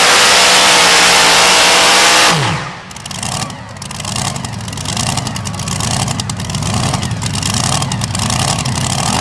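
Super modified two-wheel-drive pulling truck's engine at full throttle, then cut off abruptly about two seconds in, its pitch falling as it winds down. A quieter, uneven low engine rumble follows.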